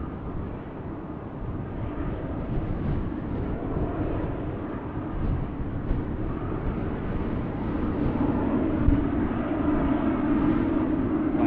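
Jet engines of a Boeing 777-300ER (GE90-115B) running on arrival, a steady rumble that grows louder over the last few seconds, with wind buffeting the microphone.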